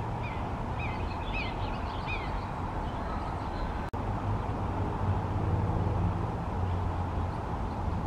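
Short high bird chirps, about half a dozen quick notes in the first two and a half seconds, over a steady low background rumble. A brief break in the sound comes just under four seconds in.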